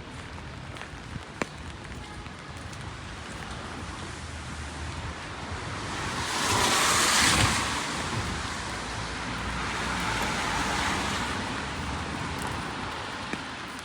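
Rain-soaked city street ambience with a car passing on the wet road: its tyre hiss swells to a peak about seven seconds in and fades, followed by a smaller swell.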